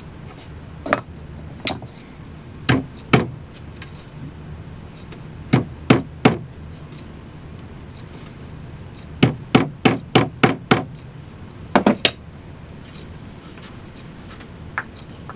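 Hammer tapping small nails through leather hinges into a wicker basket, in short runs of sharp blows: a few single taps, a quick run of about six, and a faint last tap near the end.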